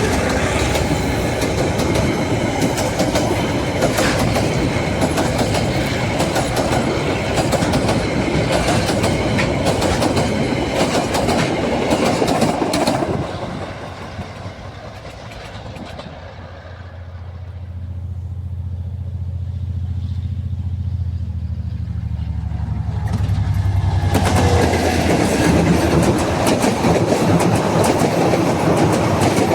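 Train passing close by, its wheels clattering over the rail joints. About halfway through the clatter drops away for several seconds, leaving a low diesel-like hum, before the clattering builds up again.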